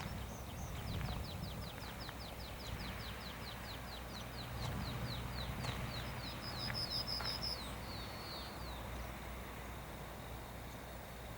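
A songbird singing one long song: a run of short down-slurred whistled notes, about four a second, that ends about eight seconds in with a brief burst of higher notes and a short trill.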